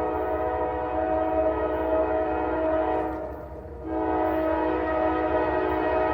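Norfolk Southern freight locomotive's multi-chime air horn sounding a long blast, breaking off briefly a little past halfway and then sounding again, over the low rumble of the train.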